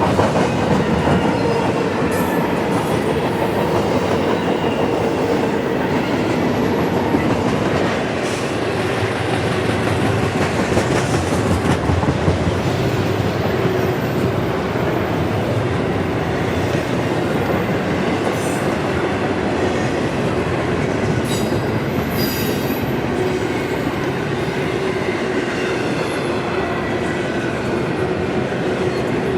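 Freight train cars rolling past on the track with a steady clickety-clack of wheels over the rails, and a few brief high-pitched wheel squeals partway through.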